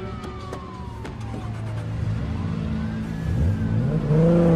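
A siren wailing in slow rising and falling sweeps, then a car engine revving up and getting louder near the end.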